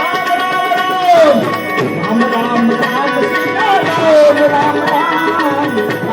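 Indian folk devotional music: tabla playing under a steady drone, with a singer's held, ornamented notes that slide down twice.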